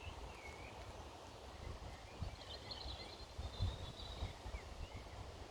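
Faint outdoor birdsong: a few short chirps near the start and a twittering burst about halfway through, over irregular low thuds and rumble.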